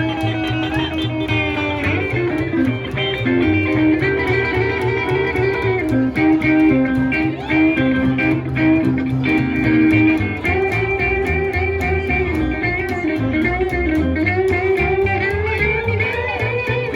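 Live honky-tonk band playing an instrumental break: a lead guitar solo of held, bending and gliding notes over a steady bass and rhythm.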